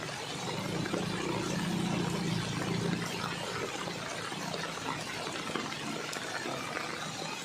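A vehicle's engine running with a steady rush of water as it travels through floodwater; the engine hum is strongest in the first few seconds.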